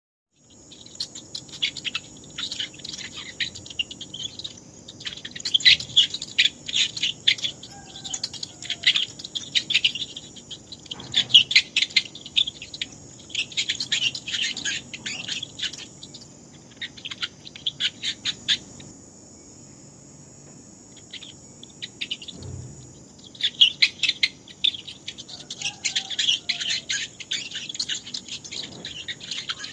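Mice squeaking: clusters of rapid high-pitched squeaks, with a lull of a few seconds past the middle, over a steady high hiss.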